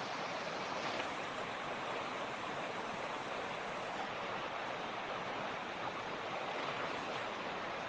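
Mountain creek rushing steadily over rocks, a constant even water noise.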